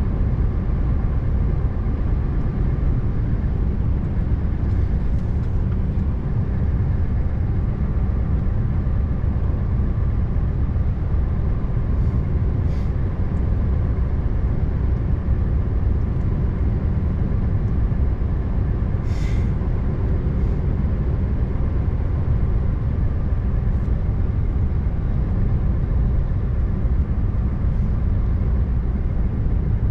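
Scania R590 V8 truck driving at a steady pace: a continuous low rumble of engine and road noise, with a few faint ticks and a short faint hiss about two-thirds of the way through.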